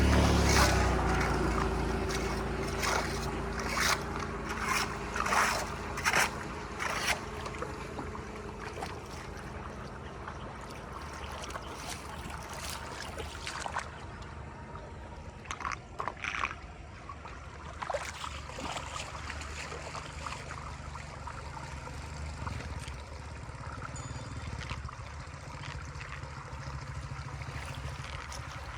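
Water draining and gurgling through a cleared blockage. A loud low surge comes at the start, with knocks and splashes over the first several seconds, then steadier running water with a faint low hum.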